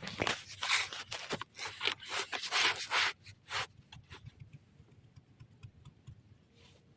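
A quick run of irregular scraping and rubbing strokes for about three and a half seconds, then only faint scattered ticks.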